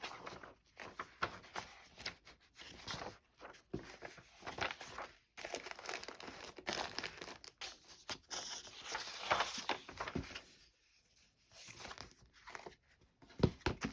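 Paper rustling and crinkling in fits and starts as vintage paper doll sheets, books and cards are handled and shuffled, with a brief quieter spell and a couple of sharp knocks near the end.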